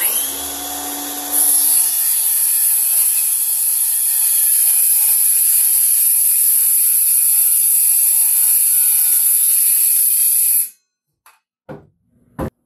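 Circular saw spinning up and then cutting a shallow pass, about a quarter inch deep, along a board. It runs steadily for about ten seconds and stops quickly, followed by two short knocks of wood being handled.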